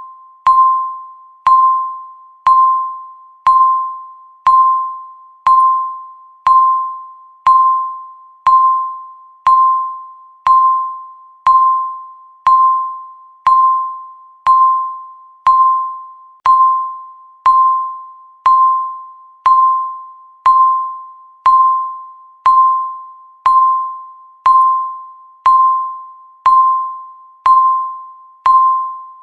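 Countdown timer's electronic beep, sounding once every second: each beep is a single pitched tone that starts sharply and fades away before the next.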